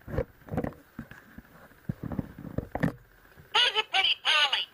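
A low, muffled voice speaking, then, about three and a half seconds in, a talking toy parrot answering in a shrill, squawky high-pitched voice with two quick phrases.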